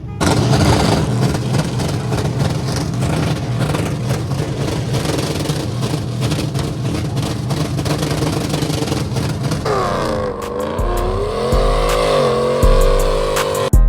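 A truck engine revving hard and continuously, with a dense rushing noise. About ten seconds in it gives way to music with deep bass hits and sliding tones.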